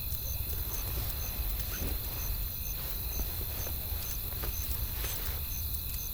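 Wood fire crackling: irregular snaps and pops over a low rumble, with a faint high chirp repeating about twice a second.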